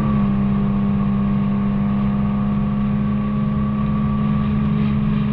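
Infiniti G37's VQ37VHR V6 running with the muffler and resonator deleted, cruising at a steady speed: a loud, steady exhaust drone that holds one pitch.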